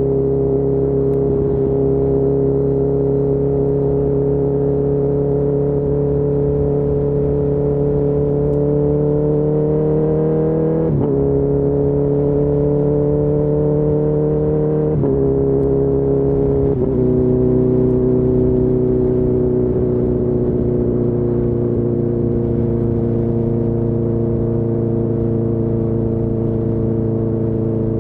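2019 Honda CB1000R's inline-four engine running through a full Akrapovic exhaust under way. Its pitch climbs, then drops sharply with three upshifts at about eleven, fifteen and seventeen seconds in. After that it eases off slowly in the higher gear.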